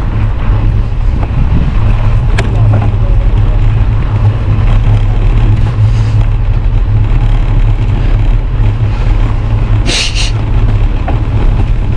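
Wind buffeting the microphone, a steady loud low rumble, with a short hiss about ten seconds in.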